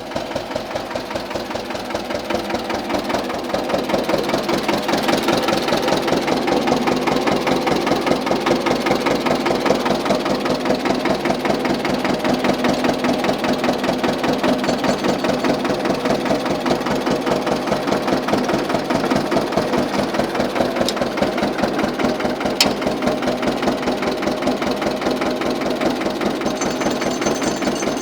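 1953 Güldner tractor's diesel engine running with an even, rhythmic beat. It grows louder about three seconds in, then holds steady.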